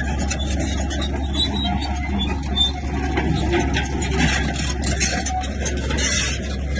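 Bulldozer's diesel engine running with a steady low drone, under irregular clatter and scraping from the tracks and the rock being pushed.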